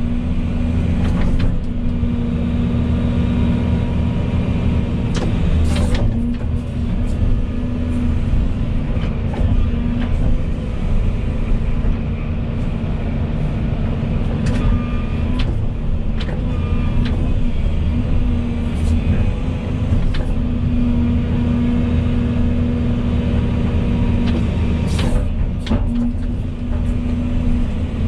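Volvo EC220E excavator's diesel engine running steadily while digging, with a few short knocks now and then.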